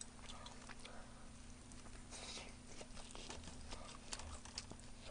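Faint close-miked chewing of spicy fried chicken: soft wet mouth sounds and scattered small clicks, with a few sharper ticks about four seconds in as a plastic-gloved hand handles the pieces in a metal tray.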